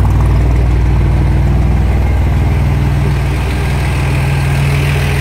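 Rat rod truck's carbureted engine idling steadily on its first run, with a rapid, even run of exhaust pulses; it drops slightly in level about three seconds in.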